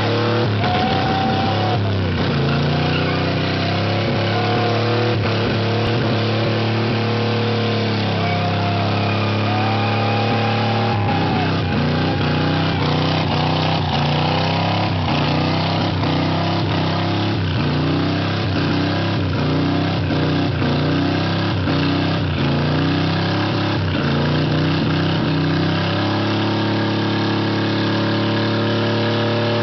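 Hot rod roadster's engine running at high, steady revs through a long burnout, the rear tyre spinning against the ground. The revs shift about eleven seconds in and again near the end.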